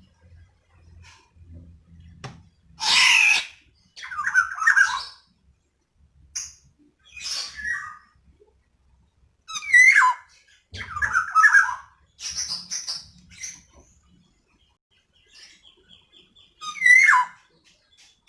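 Female black-naped oriole (kepodang) calling: a run of harsh squawks and short down-slurred notes at irregular intervals, the kind of call used as a lure to set male orioles singing.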